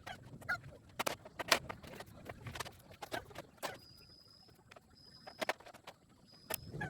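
Irregular sharp taps and knocks, a dozen or so at uneven intervals, with a faint thin high whistle-like tone that comes and goes in three short pieces past the middle.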